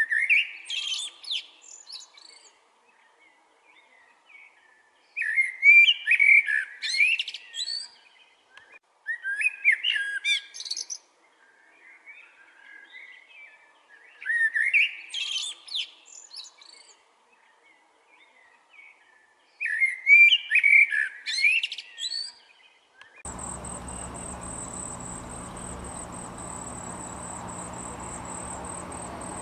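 A songbird sings five short warbled phrases of about two seconds each, with pauses between them. About 23 seconds in, the sound cuts abruptly to a steady insect chorus with a constant high-pitched trill.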